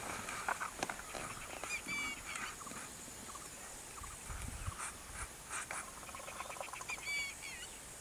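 A bird calling twice, each time a quick run of chirps, about two seconds in and again near the end.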